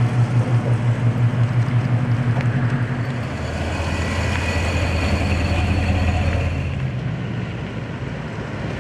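Car engine idling with a lumpy, rapidly pulsing rumble for about the first three seconds, then settling into a slightly lower, smoother drone.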